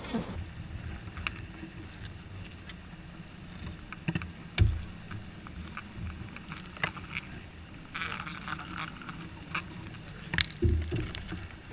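Handling noise from working with beehive comb and frames: scattered clicks and light knocks, with two dull thumps, about four and a half and ten and a half seconds in.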